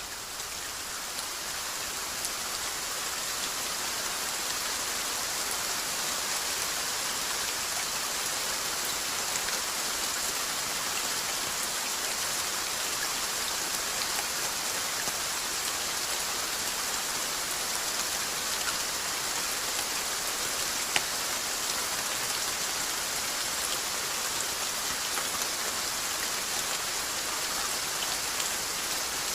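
Steady rainfall: an even, dense hiss of rain on a surface with scattered single drop ticks, one sharper tick about 21 seconds in. The level comes back up over the first few seconds after a brief dip.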